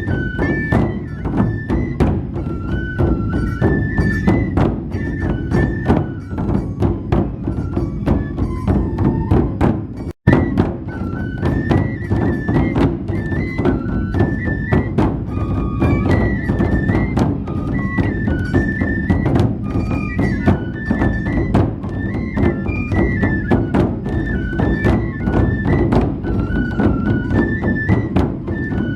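Traditional Matsue festival music: big dō drums beaten in a fast, steady rhythm under a high bamboo-flute melody that moves in steps. The sound drops out for an instant about ten seconds in.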